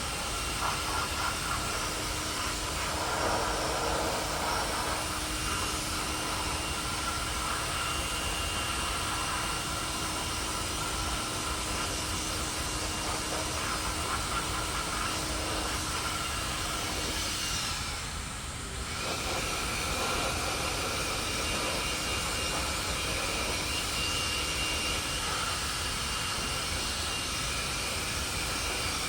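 Steady, loud hissing machine noise with faint steady whines in it, dropping briefly about 18 seconds in and then carrying on.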